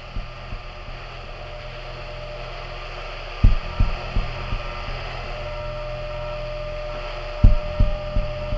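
A steady low hum over a rising hiss, broken three times, roughly every four seconds, by clusters of short, dull low thumps.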